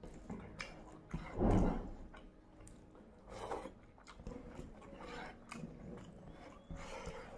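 Close-miked chewing and biting of crispy crumbs of fried coating, picked by hand from the board. It comes in separate bursts every couple of seconds, the loudest about a second and a half in.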